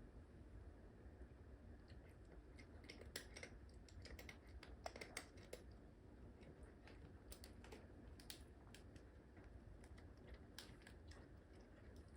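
Near-silent room tone with faint, irregular clicks and light taps.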